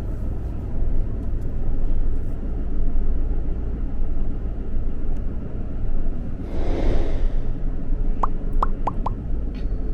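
Steady low rumble of a vehicle driving slowly, heard from inside the cab. A brief hiss swells and fades about seven seconds in, and four short rising chirps follow near the end.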